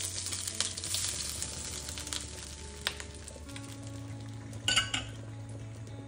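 Food sizzling as it fries in a hot pan, with a few sharp clinks of a utensil against the pan, the loudest a ringing pair near the end.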